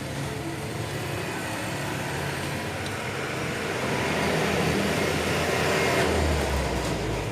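A motor vehicle engine running, its rumble growing louder past the middle and strongest near the end.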